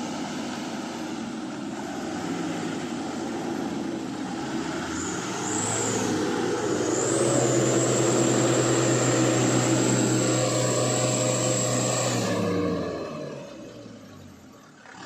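Heavy truck engine labouring under load as the truck climbs a steep dirt slope: it builds to a louder, steady pull about six seconds in, with a thin high whine over it, then eases off and fades about twelve seconds in.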